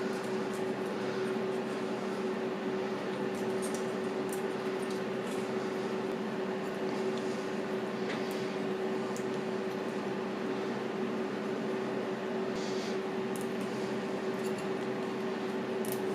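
A steady mechanical hum with one constant tone, unchanging in level, and a few faint light clicks on top.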